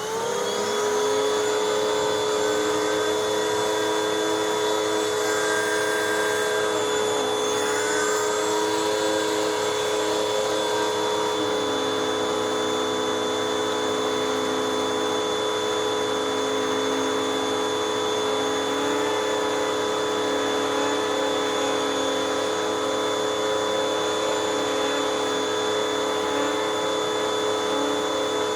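Hoover WindTunnel 2 High Capacity Pet bagless upright vacuum switched on. Its motor spins up to speed in the first second, then runs steadily with a whine, its pitch shifting slightly a few times.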